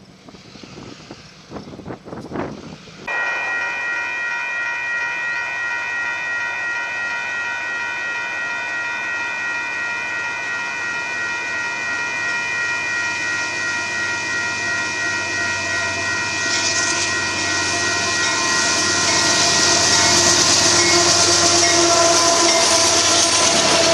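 Railroad crossing bell ringing steadily as a Union Pacific double-stack container train passes through the crossing. The train's wheel and rail noise grows louder over the last third.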